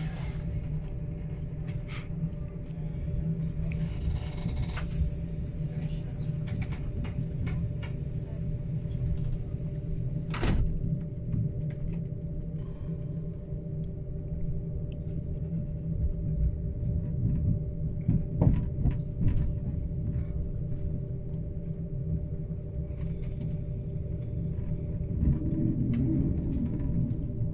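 Passenger train running, heard from inside the carriage: a steady low rumble with a faint steady hum above it, and a few light clicks and one sharp knock about ten seconds in.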